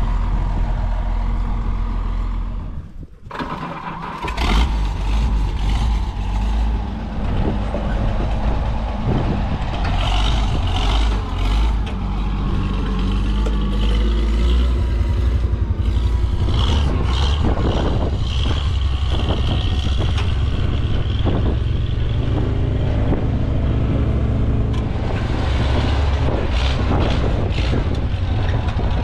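Tractor engine running steadily with a heavy low rumble. The sound briefly drops out about three seconds in, then resumes.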